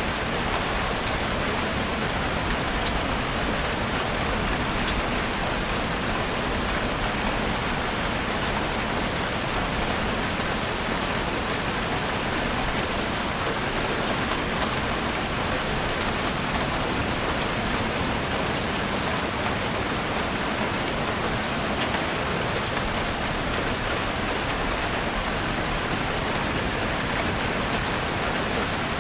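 Heavy rain drumming steadily on a roof, a dense even hiss dotted with countless small drop impacts.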